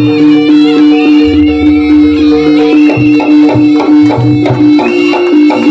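Loud live jaranan music: a traditional Javanese ensemble with a steady held tone, a bending wind-instrument melody above it, and regular drum strokes, and a deep low tone sounding for about a second and a half near the start.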